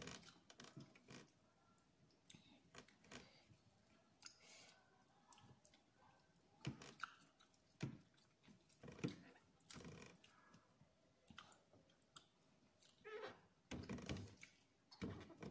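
Faint close-up chewing, with irregular soft mouth clicks and smacks.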